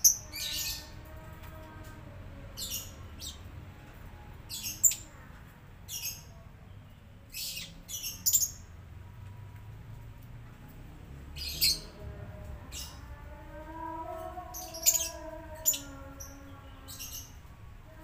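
Small birds chirping: about a dozen short, high-pitched chirps, some in quick pairs, scattered every second or two over a faint low background rumble.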